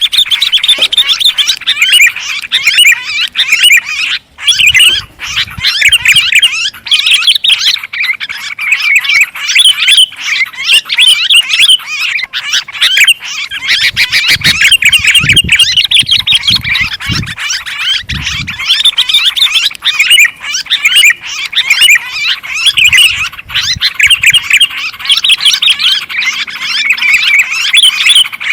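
Sooty-headed and yellow-vented bulbuls calling in a dense, continuous, noisy chatter, a flock-like din used as a bird-lure call. A few low thuds come in about five seconds in, in the middle, and again near the end.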